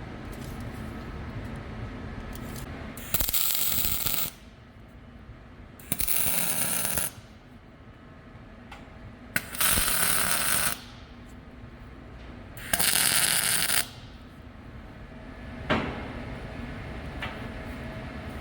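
MIG welder striking four short tack welds, each a crackling burst of about a second with short pauses between, on steel braces. A single sharp knock follows near the end.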